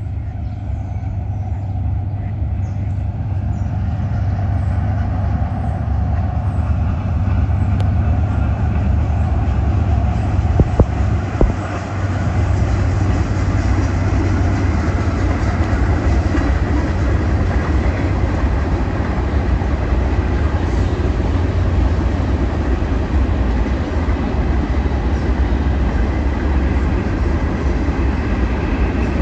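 Diesel-hauled freight train passing: the locomotives and then a string of covered hopper cars rolling by in a steady rumble that builds over the first few seconds. A few sharp knocks come about ten seconds in.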